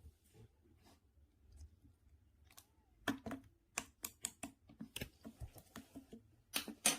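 Slime being pressed and worked by hand, giving a string of sharp sticky clicks and pops: sparse and faint at first, coming two to four a second after about three seconds, with the loudest pair near the end.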